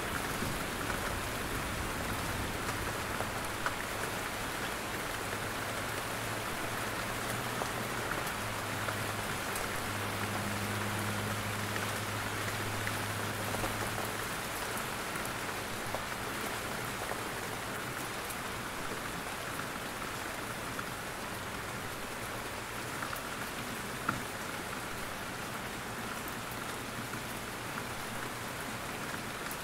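Steady rain falling in a forest, a dense even hiss with scattered drops pattering from the trees, and a faint low rumble in the first half.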